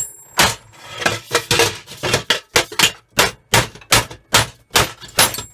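Repeated hammer blows on metal in a steady rhythm, about two or three a second, punching a stubborn fixing through while dismantling an old hood hair dryer.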